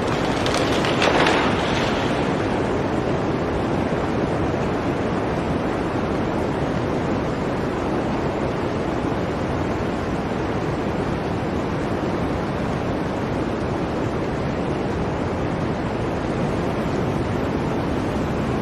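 Blizzard wind ambience: a steady rush of wind, with a louder gust about a second in.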